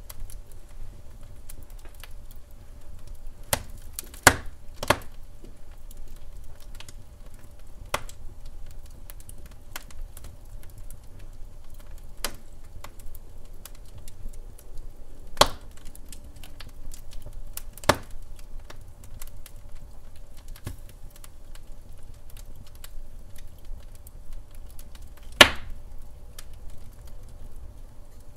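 Wood fire crackling: irregular sharp snaps and ticks from burning logs over a low steady rumble, with louder pops about four seconds in, near the middle and about three seconds before the end.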